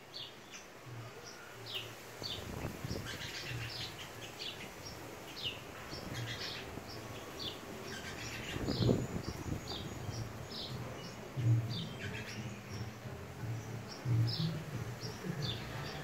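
Small birds chirping repeatedly in short, high, downward-sliding notes, over a low hum that comes and goes.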